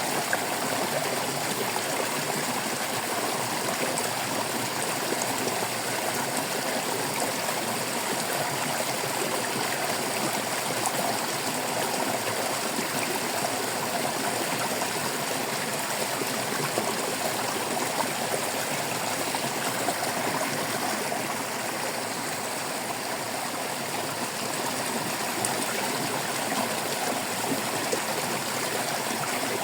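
Stream water babbling and trickling steadily over stones.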